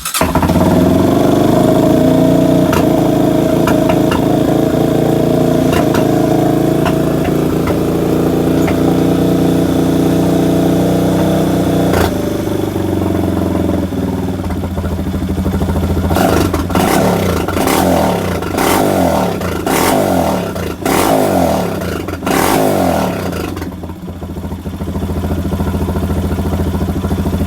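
Honda CRF230F dirt bike's single-cylinder four-stroke engine catching and running after sitting unused for a while, on a freshly worked-over carburetor. It runs steadily at first. From about 16 seconds in, the throttle is blipped several times, the revs falling back after each, before it settles to an idle.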